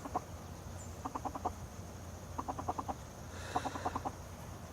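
A bird calling in quick bursts of short clucking notes, about five notes to a burst, the bursts repeating roughly every second over a faint steady hum.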